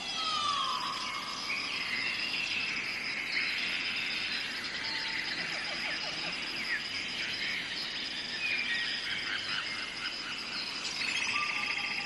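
Tropical forest ambience: a steady high insect drone under many birds calling and whistling, with a whistle that slides down in pitch once near the start and again near the end.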